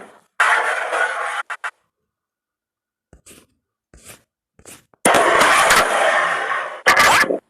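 Carrom pieces scraping across a wooden carrom board in two stretches, a short one about a second in and a longer one in the second half, with a few light clicks between and a sharper click near the end.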